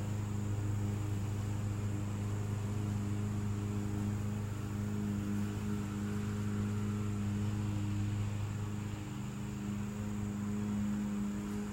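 A steady low hum over a faint even hiss, holding the same pitch throughout.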